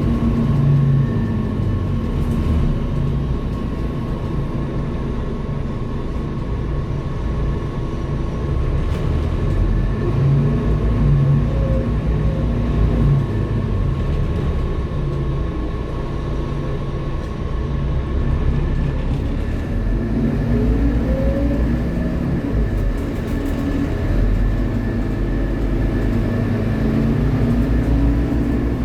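Scania K230UB city bus running in service, its diesel engine rumbling steadily with a thin steady whine over it. The pitch rises twice as the bus accelerates, about a third of the way in and again past the middle.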